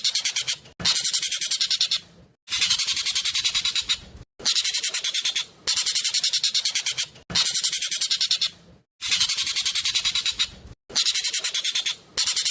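Jovin (ekek keling) bird calling loudly: fast, rattling high-pitched chatter in bursts of about a second and a half, repeated roughly every two seconds.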